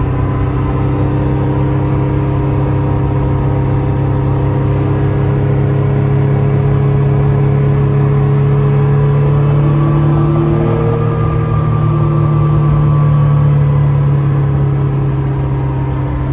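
1970 Porsche 911S's air-cooled flat-six engine running steadily under way, heard from inside the car. Its pitch rises a little about two-thirds of the way through.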